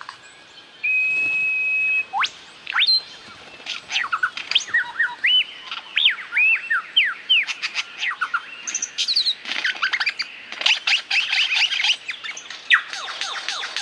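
Lyrebird singing a medley of calls mimicked from other bird species. It opens with a steady held whistle, then a run of rising and falling whistled notes, then fast rattling chatter near the end.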